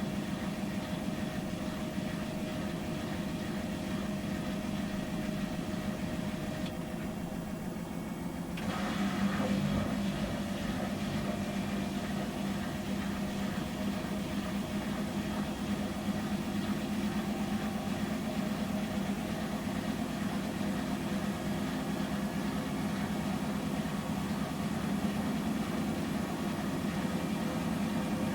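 Samsung Series 5+ AI SmartThings washing machine running its 800 rpm intermediate spin after the first rinse: a steady motor hum with a drum whine. About nine seconds in the tone shifts and the sound gets slightly louder.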